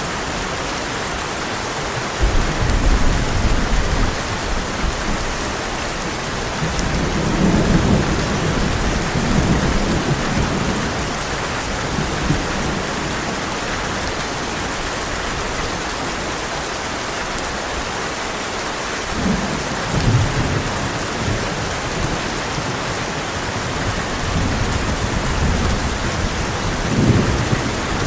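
Heavy rain falling steadily, with low thunder rolling several times, louder about two seconds in and again near the end.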